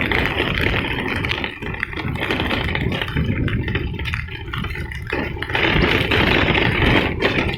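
A vehicle's engine running, with rattling and a steady hiss over it.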